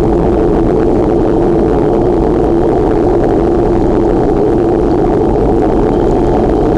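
Steady, loud rushing noise of wind on the microphone while riding a bicycle.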